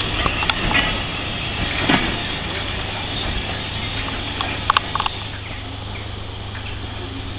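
Train of wooden-bodied LNER teak coaches rolling past and away, wheels clicking over the rail joints, the noise slowly fading as it recedes. A few short high squeaks come about two-thirds of the way through.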